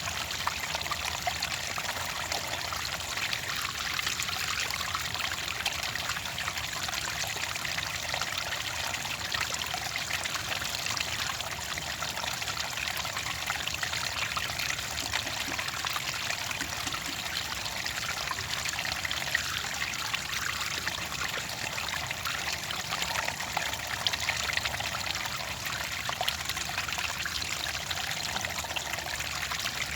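Clear water flowing and trickling in a steady, unbroken stream, with fine splashing and bubbling.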